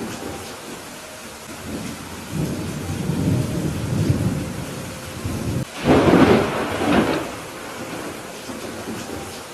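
Thunderstorm with steady rain: thunder rumbles, builds to a loud crack about six seconds in with a second peak a second later, then dies back to the hiss of rain.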